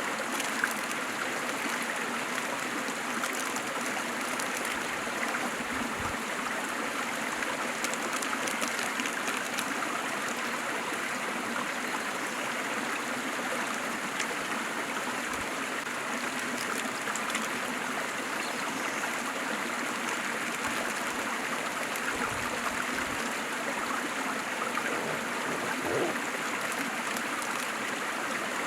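A waterfall running steadily: an even, unbroken rush of falling water, with the odd small splash standing out.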